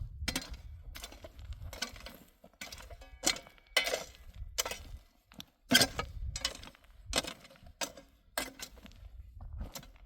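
Wood being chopped with a hatchet or axe, most likely kindling or firewood for a wood-burning stove. The strikes come sharply and fairly regularly, about one every half second or so, with the loudest blow near the middle.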